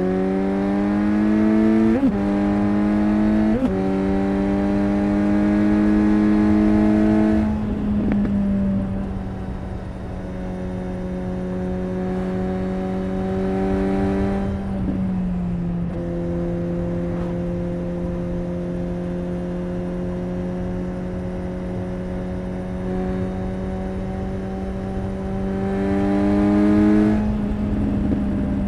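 Suzuki GSX-S 750's inline-four engine and exhaust under way. It pulls with rising revs through two quick gear changes in the first few seconds, then eases off and runs at fairly steady revs, with another shift about halfway and a short burst of throttle near the end.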